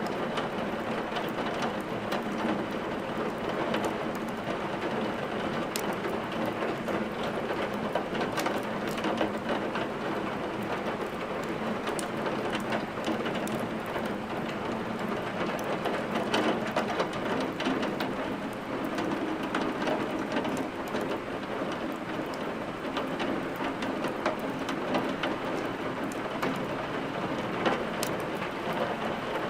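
Steady rain with many scattered sharp clicks and crackles, mixed with a wood fire crackling in a fireplace.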